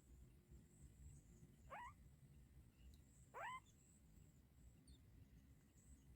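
A bird gives two short calls that sweep quickly upward in pitch, about a second and a half apart, over a faint background hiss.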